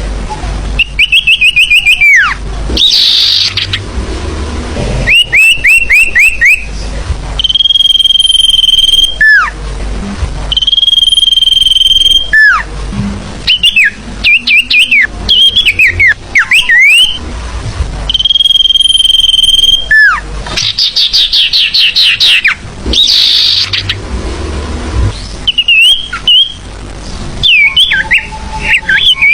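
Recorded bird calls used as a lure: long, steady, high whistles, each ending in a falling slide, alternate with fast runs of short chirps. The phrases repeat over and over at full volume.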